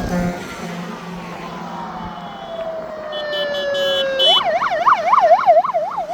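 Fire engine sirens in a passing convoy: a horn blast cuts off at the start, a siren wail slowly falls in pitch, and about four seconds in a fast warbling siren starts, rising and falling about three times a second.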